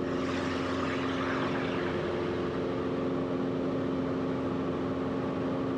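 Cessna 172RG's four-cylinder Lycoming engine and propeller droning steadily in flight, with a few even, unchanging tones over a constant rumble.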